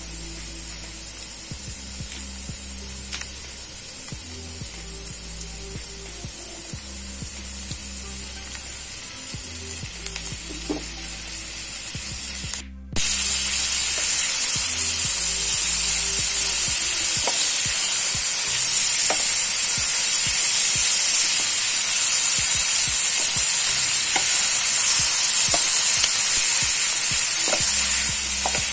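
Squid and onion stir-frying in butter in a hot pan, a steady sizzle. After a brief dropout about 13 seconds in, the sizzle grows louder and a spatula clicks and scrapes against the pan as the food is stirred.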